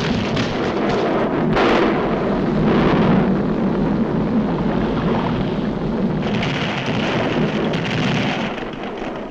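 Sound effect of an erupting volcano: a continuous, loud rumbling noise that turns hissier about six seconds in, with the deep rumble thinning near the end.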